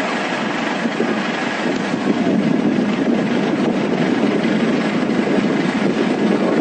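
Floodwater rushing in a flash-flood torrent: a loud, steady roar of water.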